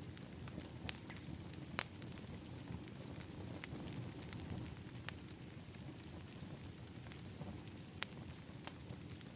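Wood fire burning in an outdoor fire pit: a steady low rush of flames, broken by a few sharp crackling pops. The loudest pop comes about two seconds in, and others come near one, five and eight seconds.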